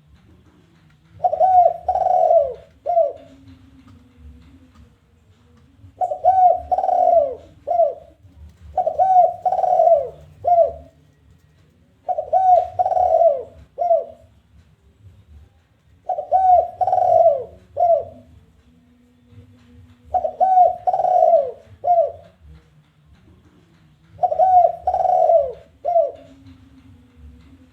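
Spotted dove (tekukur) cooing in its challenging call: seven repeated phrases of three coos, two close together and a shorter last one, each phrase about every four seconds.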